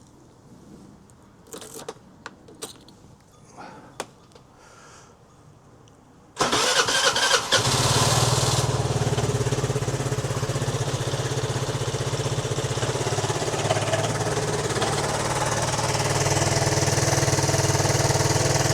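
Vespa GT 200 L scooter's single-cylinder four-stroke engine cranks for about a second and catches, about six seconds in, then idles steadily as it is warmed up for an oil change. Before the start there are only a few faint clicks and knocks.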